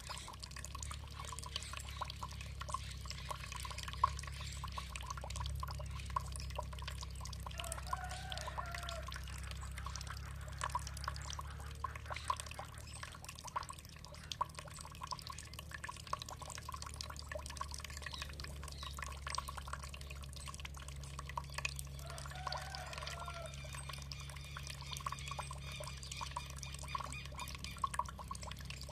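Water trickling and dripping, with many small drips over a steady low rush. Twice, about 8 s and 22 s in, a bird gives a short call.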